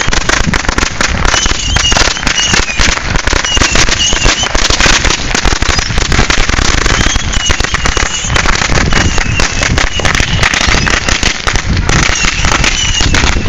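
Long string of firecrackers going off in a dense, continuous run of rapid pops.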